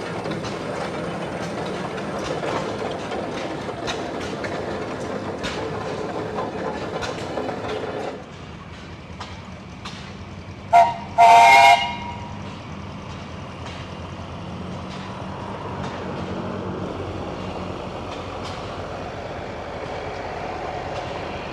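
Machinery running with a dense, irregular clicking that drops off abruptly about eight seconds in. A few seconds later, a whistle sounds twice: a short toot, then a longer blast, the loudest sound here. A low steady running noise follows.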